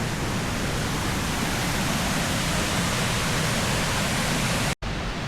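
Tiered waterfall with a steady, loud rush of falling water, cut off to silence for an instant near the end.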